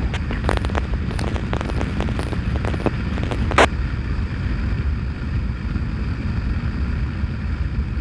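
Low, steady rumble of a motorcycle underway, mixed with crackles of radio static from a police scanner. About three and a half seconds in comes one short, sharp burst of scanner squelch noise.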